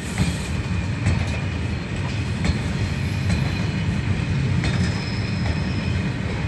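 Freight train of flat wagons loaded with heavy forest machines rolling slowly past, a steady low rumble with irregular clacks of the wheels over the rail joints.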